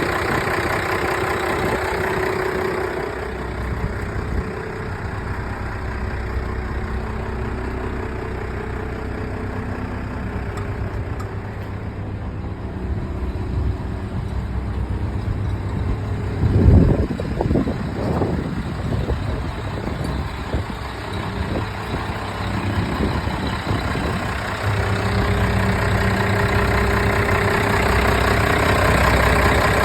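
1988 Ford L8000 fire truck's engine idling steadily, with a brief low thump a little past halfway and the engine coming through louder near the end.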